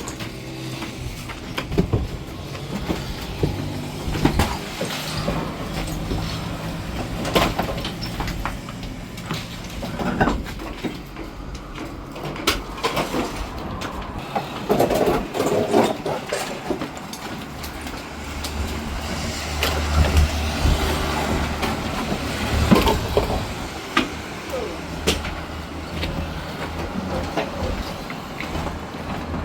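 A truck engine running with a low steady hum, louder for a few seconds past the middle, mixed with many scattered knocks and clatter.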